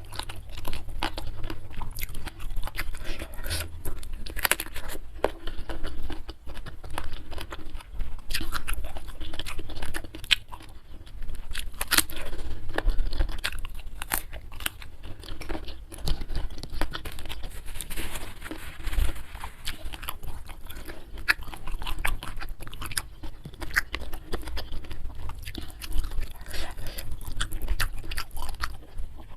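Close-miked ASMR eating: a person chewing and biting into a rice meal with crisp side dishes, with many sharp, irregular crunches.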